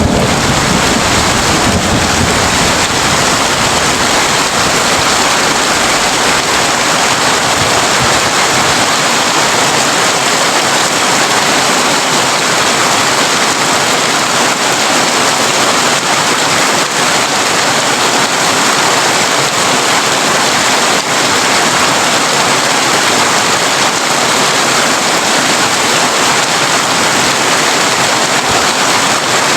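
Heavy rain drumming steadily on a tin (corrugated metal) roof, with a low rumble under it at first that fades out about eight seconds in.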